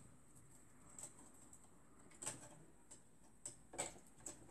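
A few faint, scattered clicks and taps of hands working on a copier fuser unit, pulling wires out of their plastic wire channel, over near silence.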